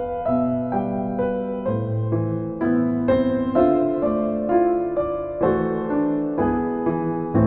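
Background piano music: a slow, gentle melody of single notes over sustained bass notes.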